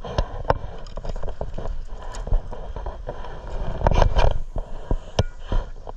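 Irregular knocks, clicks and scrapes over a steady low rumble aboard a fishing boat, with a cluster of louder knocks about four seconds in.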